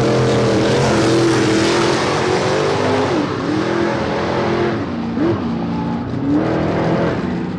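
Car engine running steadily, its pitch wavering and dipping briefly a few times, over road and track noise.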